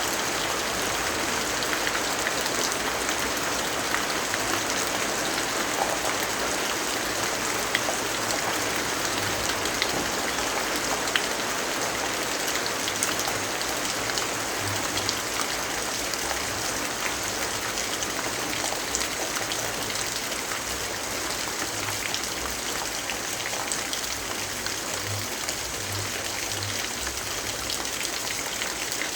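Steady rainfall: an even hiss with scattered small drop ticks.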